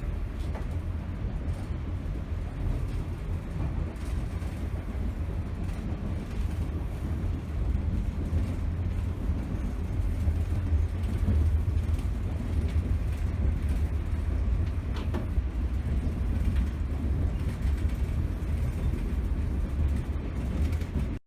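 Grand Canyon Railway passenger train running, a steady low rumble with no speech, cutting off abruptly at the end.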